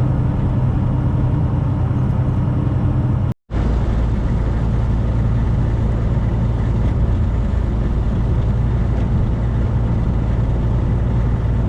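Steady diesel engine drone and road noise inside the cab of a 2018 Freightliner semi truck driving at highway speed. About a third of the way in the sound cuts out for a split second, then comes back with a deeper drone.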